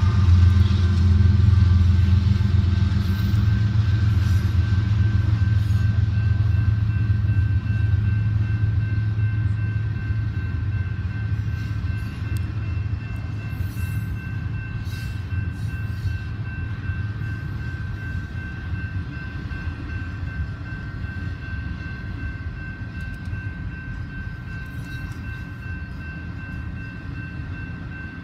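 Double-stack container freight train passing, heard from inside a car's cabin: a heavy low rumble that fades gradually. A thin, steady high squeal joins about six seconds in.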